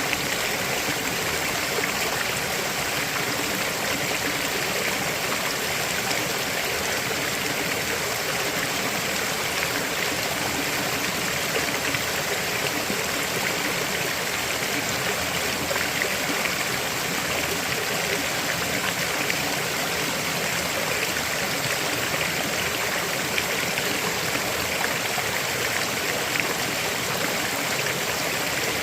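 A river flowing: a steady rush of running water with no breaks or changes.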